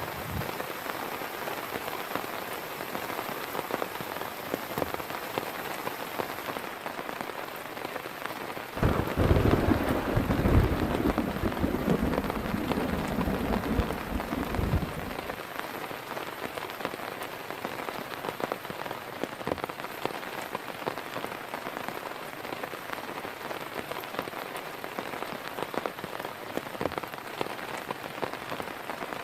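Steady heavy rain pattering, with many separate drops. About nine seconds in, a thunder rumble breaks in suddenly, rolls for about six seconds and fades away.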